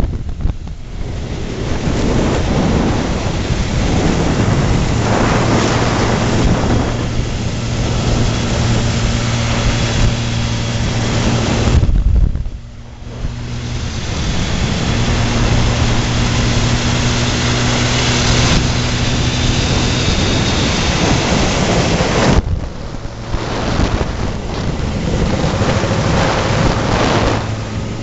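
Yamaha RD350's two-stroke parallel-twin engine running through a 2-into-1 exhaust, held at fairly steady revs with wind noise on the microphone. The sound drops away sharply for about a second roughly twelve seconds in, and again briefly near twenty-two seconds.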